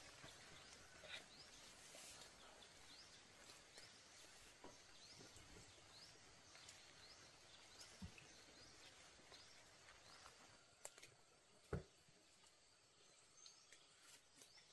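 Near silence: faint outdoor background with small, scattered bird chirps and a few soft knocks, the clearest near the end.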